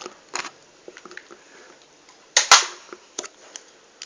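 Handling noise from a plastic action figure: a few light plastic clicks and taps, with one louder knock about two and a half seconds in.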